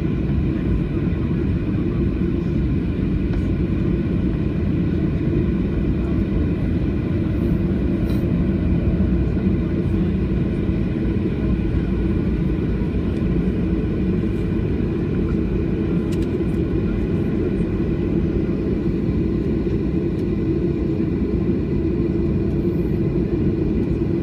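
Steady cabin noise inside a Boeing 737-800 airliner: a low rumble from its CFM56 engines and airflow, with faint steady whining tones above it and no change in level.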